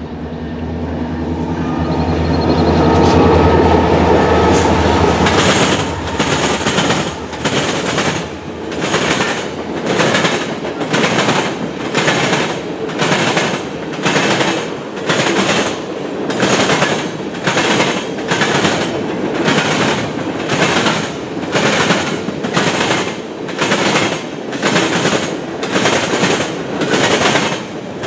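CN diesel freight locomotives running past for the first few seconds, growing louder. Then the freight cars' wheels clack over the rail joints in a steady rhythm, about three clacks every two seconds.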